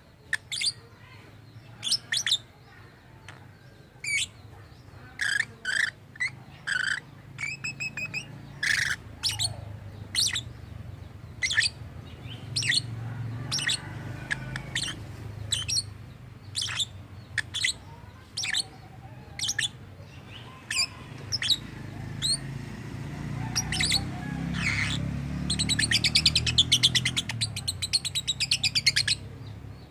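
Lovebird chirping: short, sharp, shrill calls repeated every half second or so, with a rapid chattering run of notes near the end. A low rumble underneath grows louder around the middle and again near the end.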